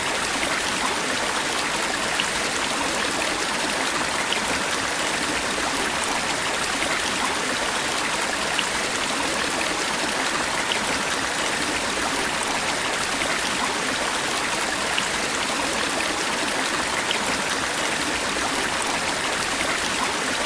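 A stream of water running, recorded close up, a steady rushing splash with small bright droplet ticks scattered through it.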